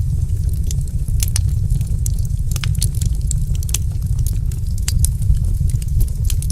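Wood fire crackling, with irregular sharp snaps and pops over a steady low rumble of the burning fire.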